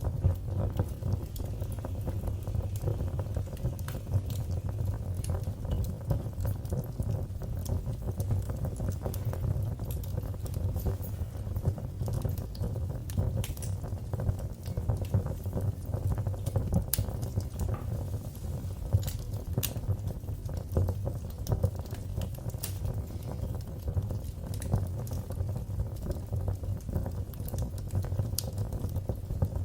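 Fire crackling in a fireplace: a steady low rush of flames with frequent, irregular sharp pops and snaps.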